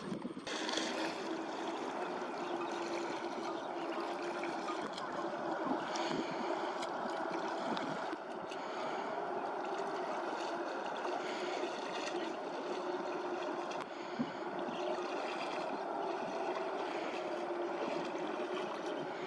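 Flowing water with a steady low hum running under it.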